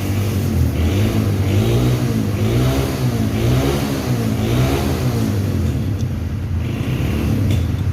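An engine running with a steady low hum, its pitch rising and falling about once a second for several seconds in the middle.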